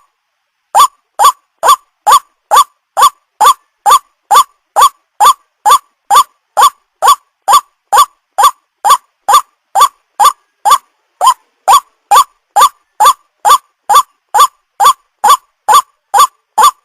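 White-breasted waterhen calling: short, sharply rising notes repeated steadily about twice a second, resuming after a brief pause at the start. It is the bird's loud repetitive call used to lure waterhens.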